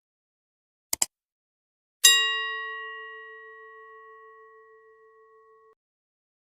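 A short double click, then about a second later a single bell-like ding that rings out and fades with a slow wavering for about three and a half seconds before cutting off.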